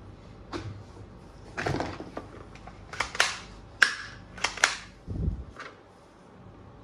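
Plastic toy guns and parts being handled: a series of irregular sharp clicks and knocks with a short rattle, ending in a dull thump.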